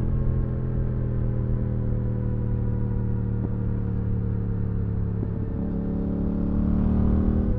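Yamaha R7's 689 cc CP2 parallel-twin engine running through an IXIL Dual Hyperlow exhaust with its dB-killer fitted, holding a steady pitch. There is a brief break about five seconds in, and the pitch and loudness rise slightly near the end.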